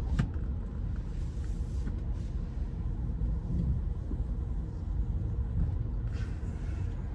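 Steady low rumble of a car's engine and tyres while driving, heard from inside the cabin, with one short click near the start.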